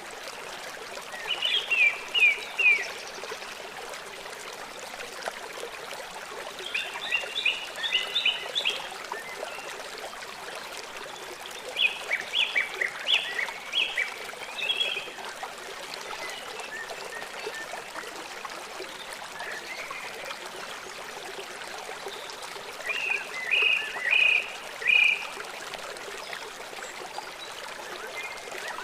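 Small songbirds chirping in four short bursts of rapid high notes, each a second or two long, over a steady rush of running water.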